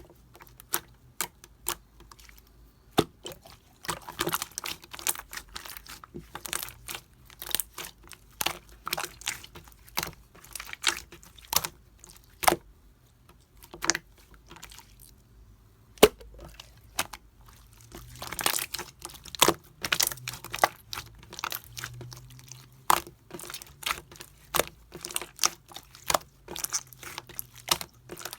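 Slime being squeezed, folded and pressed by hand, giving a dense, irregular run of sharp wet clicks and pops, with a brief lull about halfway through.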